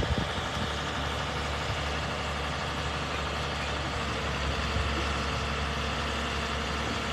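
A heavy vehicle's engine idling steadily, a constant low rumble.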